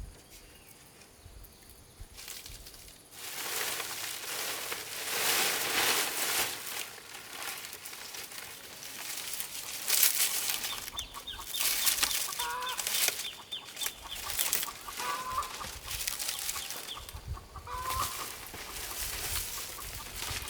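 Chickens clucking, with a few short calls around the middle and near the end over a noisy rustle that starts about three seconds in.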